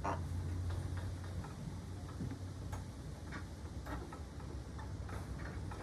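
Irregular short clicks or ticks, about one or two a second, over a steady low rumble.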